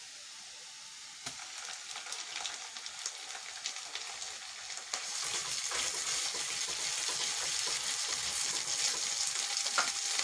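Chopped onions and ginger-garlic paste sizzling in hot oil in a non-stick wok while a silicone spatula stirs them. The sizzle gets louder about a second in and again about halfway through.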